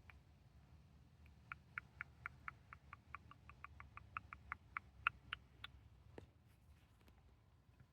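Fingernails tapping and scratching at the microphone in quick, faint, sharp clicks, about five a second, which start about a second and a half in and stop a little after halfway, followed by one last click.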